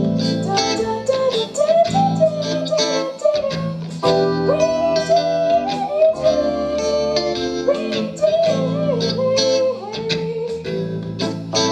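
Live band music in a jazz-blues style: plucked guitar over steady bass notes, with a gliding, wavering lead melody line sliding between notes.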